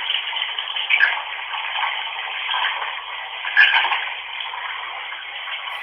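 Bath tap running water into a tub, a steady rushing hiss with a few brief louder splashes or blips, heard thin and narrow as if through a phone.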